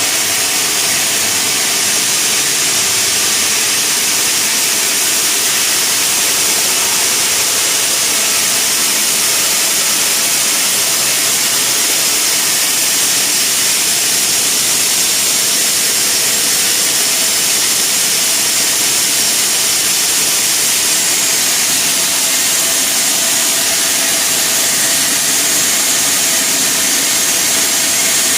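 Sawmill saw running steadily with a loud, even hiss and a faint steady hum underneath, with no change in pace.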